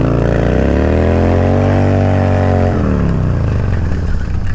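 Motorcycle engine revving up under throttle, holding high revs for about a second, then easing back down.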